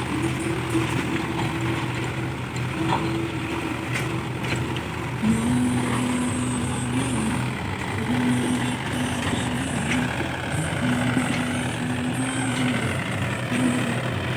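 Mahindra Yuvo 575 DI 45 hp diesel tractor engine running under load while pulling a cultivator through a field. A steady droning note drops to a lower pitch about five seconds in, then fades in and out.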